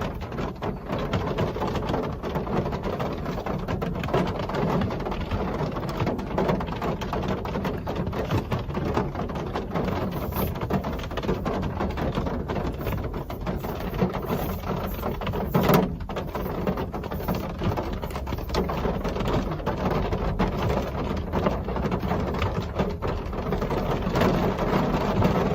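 Real rain falling steadily, a dense patter of drops, with one slightly louder tap about two-thirds of the way through.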